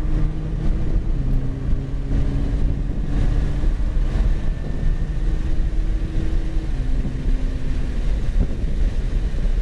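Nissan GT-R's twin-turbo V6 pulling hard under full throttle, heard from inside the cabin over loud road and wind rumble. The engine note climbs steadily and steps down twice as it shifts up, about a second in and again near seven seconds.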